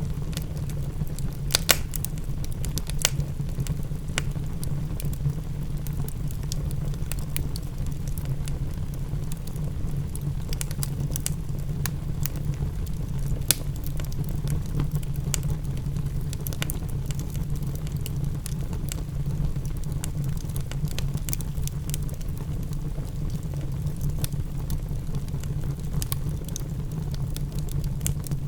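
Wood fire crackling, with irregular sharp pops over a steady low rumble; the loudest pops come about a second and a half in and again about halfway through.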